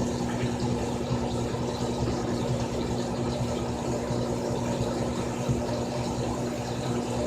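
Frigidaire Gallery Series top-loading washing machine running, a steady motor hum with a constant low tone and light rattle.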